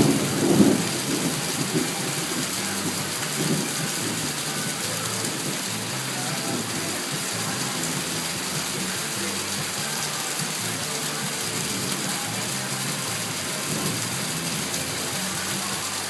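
Heavy rain falling in a steady hiss, with a low rumble in the first couple of seconds.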